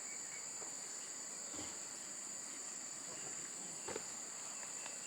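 Steady high-pitched chorus of insects, with a couple of faint knocks about one and a half and four seconds in.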